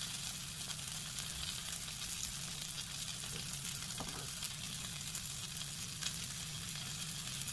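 Vegetable fritter patties frying in a little oil in a cast iron skillet: a steady sizzle with fine crackles, over a low steady hum.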